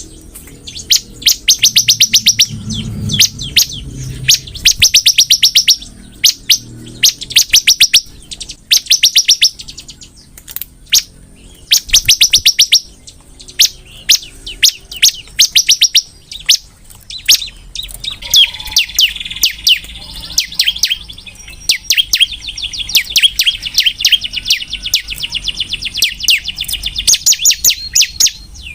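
Ciblek (bar-winged prinia) singing hard: rapid bursts of sharp, high chirps about a second long, repeated again and again, with a longer unbroken trill in the second half.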